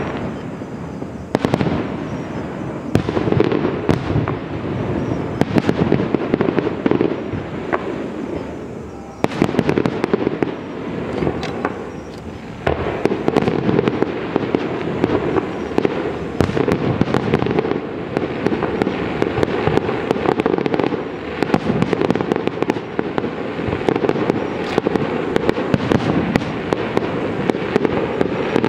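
Aerial fireworks display: a dense, continuous barrage of bursting shells with rapid crackling reports and rumbling booms, many per second.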